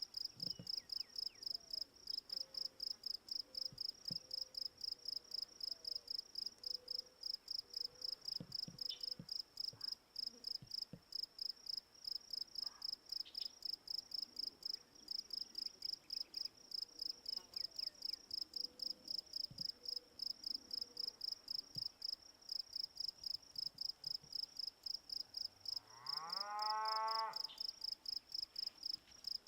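A cow moos once near the end, a single call rising in pitch. Under it runs a steady, high, evenly pulsed chirping.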